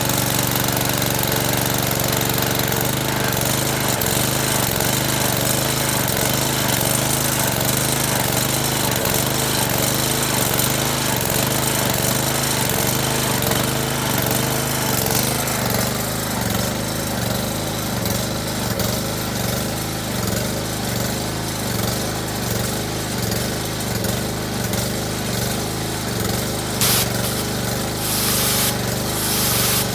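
Honda small gas engine of a pressure washer running steadily at speed. About three seconds in, its note starts to waver and pulse.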